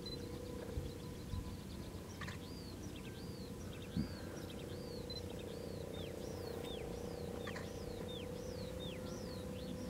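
A bird calling over and over: short notes that rise and fall in pitch, about two a second, starting a little over two seconds in, over a faint steady hum and low rumble.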